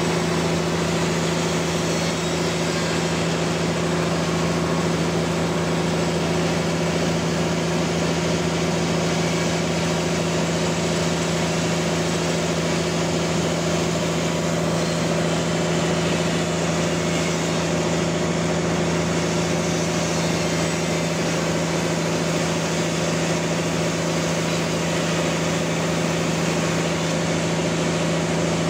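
Band sawmill running steadily while sawing a large trembesi log: a constant low hum from the drive with a hiss of cutting noise above it, unchanging throughout.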